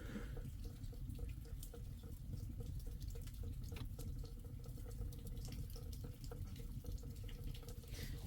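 Steady rain with many scattered drips and taps.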